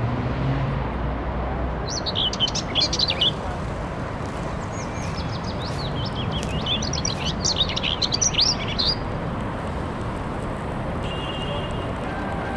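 Small birds chirping in quick high twittering runs, about two seconds in and again from about four and a half to nine seconds, over a steady background hiss: a sound-designed park ambience.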